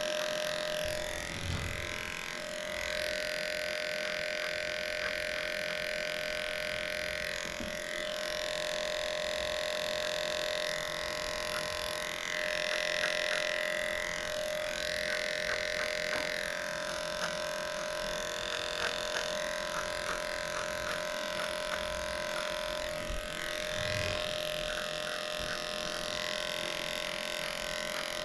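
Electric dog grooming clippers fitted with a #10 blade, running with a steady hum while shaving close through a matted coat, with light clicking now and then.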